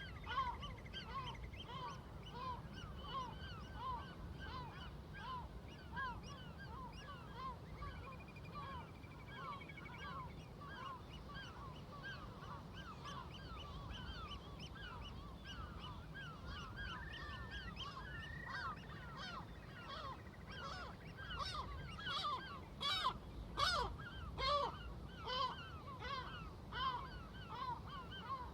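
A flock of seagulls calling over and over, many short overlapping calls, with a few louder, nearer calls a little over two thirds of the way in. A steady low rumble runs underneath.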